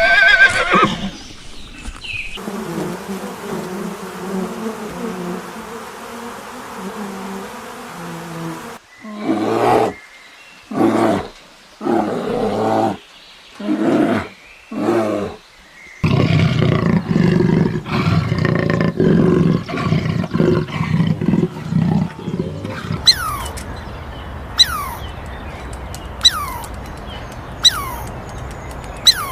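A run of different animal calls. A high call at the start gives way to a long low drone; then come five separate calls of about a second each, with gaps between them, a dense low stretch, and finally short falling chirps repeated about every second and a half.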